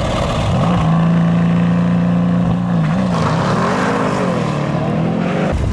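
Car engine held at steady high revs for a couple of seconds, then revved up and down. The sound changes abruptly near the end.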